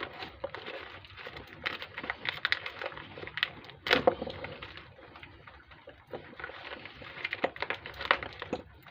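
Irregular small metallic clicks and taps of loose bolts being worked out and handled, with a sharper knock about four seconds in.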